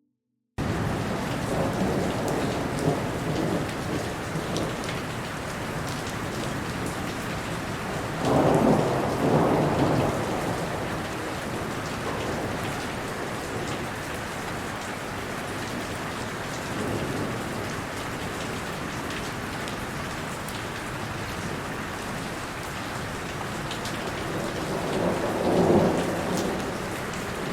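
Steady heavy rain of a thunderstorm, starting suddenly after a moment of silence. Thunder rumbles swell and fade twice, about eight seconds in and again near the end.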